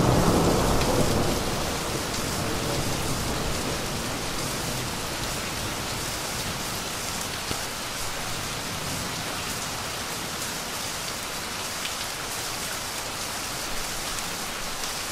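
Steady rain falling, an even hiss with scattered faint drop ticks. A low rumble dies away in the first second or two.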